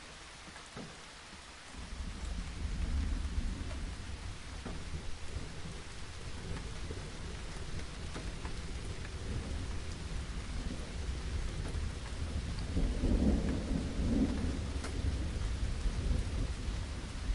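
Steady rain with a long, low rumble of distant thunder that starts about two seconds in and rolls on. It swells to its loudest about three quarters of the way through.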